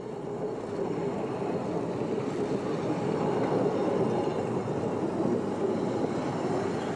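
Covered passenger coaches of a 600 mm narrow-gauge park railway rolling past on the track, a steady rumble of wheels on rail. It grows louder over the first few seconds and eases a little toward the end as the train moves away.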